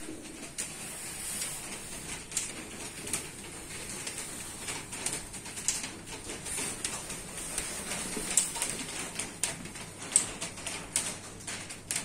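Birds calling in the open air, with scattered light taps and clicks.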